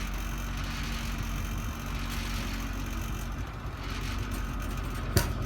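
Dually pickup truck's engine idling steadily, with one sharp knock near the end.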